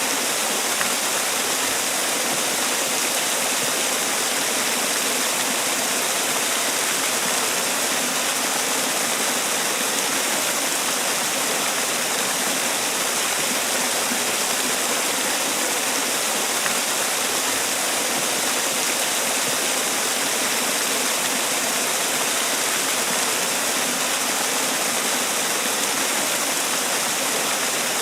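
Man-made waterfall: water falling and splashing in a steady, even rush with a bright hiss.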